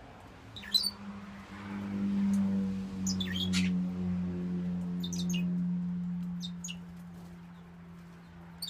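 Small birds chirping in short, high calls several times, over a long, steady low hum that swells in the middle and fades near the end.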